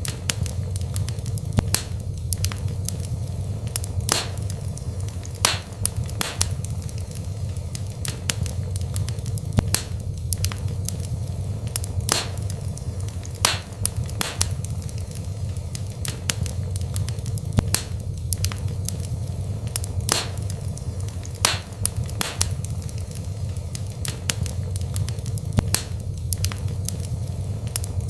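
Wood fire burning in a fireplace, with a steady low rumble of flames and sharp crackles and pops at irregular intervals, roughly one or two a second.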